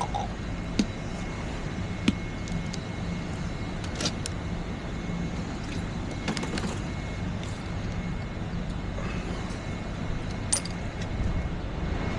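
A steady low rumble like an idling vehicle engine, with a few sharp clicks and knocks scattered through it.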